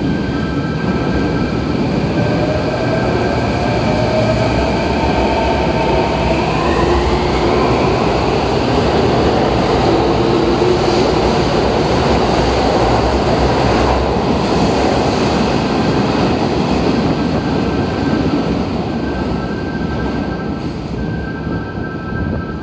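Hanshin 1000 series electric train running through an underground station without stopping. Rumble and wheel noise echo off the platform, with a whine gliding in pitch as it approaches. It is loudest as the cars rush past about halfway through, then eases off near the end as the train moves away.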